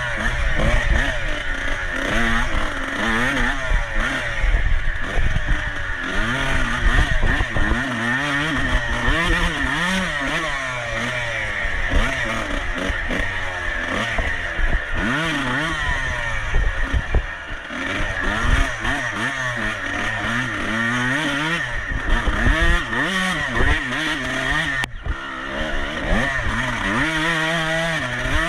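Off-road racing motorcycle engine running hard, its revs rising and falling again and again as the throttle is worked through turns and gear changes.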